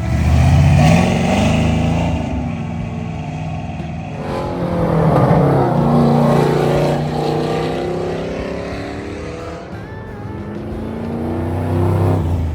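Car engine revving and settling, its pitch rising and falling, loudest about a second in and again around five seconds.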